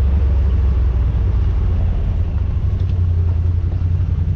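Yamaha RMAX side-by-side under way, heard from inside the cab: a steady low engine and driveline drone with road noise.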